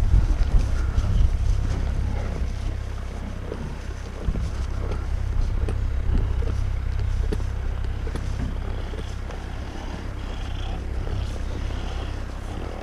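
Wind buffeting the microphone: a steady low rumble that eases off toward the end, with a few faint knocks.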